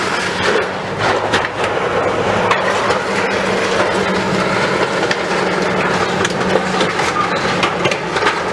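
Demolition excavator at work on a factory building: its diesel engine running steadily under a continuous crunching and cracking of breaking debris.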